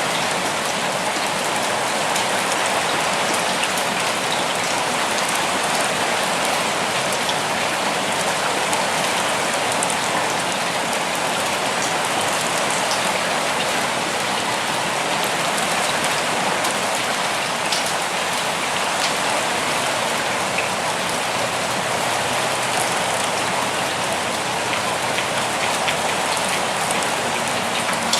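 Steady rain falling, a dense even hiss with many small drops pattering on surfaces.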